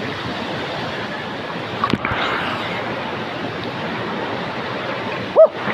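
Strong rushing flow of water at a spring-fed nature pool, a steady loud hiss. A sharp knock comes about two seconds in, and a brief high tone that rises and falls comes near the end.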